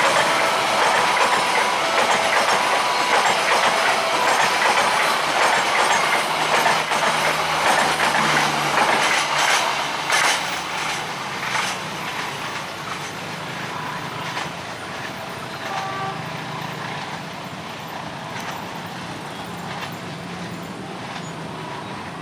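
A train passing over a level crossing, its wheels clattering over the rail joints. The noise is loud for about ten seconds and then fades away as the train recedes. The crossing's electronic warning chime sounds in short repeated tones behind it.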